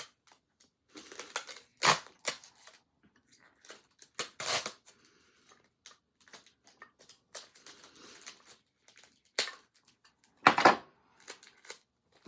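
Skeins of yarn and their packaging being handled and pressed into storage: irregular rustling and crinkling with short gaps, and three louder bursts.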